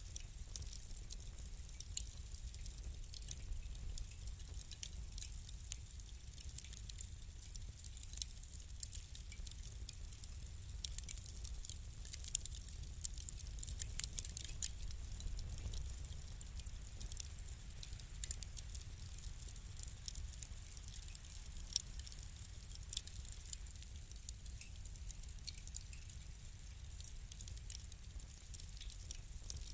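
Wood fire crackling, with many small irregular pops and ticks over a low steady rumble of the burning.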